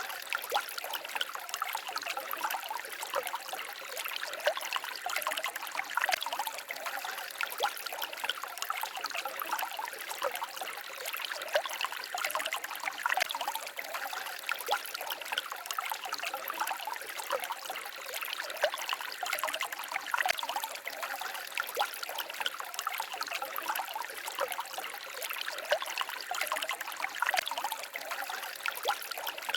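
Shallow forest stream babbling and trickling steadily, a constant splashing patter of water over stones.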